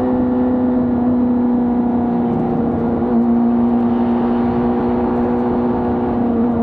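2025 Honda CBR600RR's inline-four engine with its stock exhaust, running at a steady engine speed while riding, its pitch holding nearly level. There is wind rush on the microphone underneath.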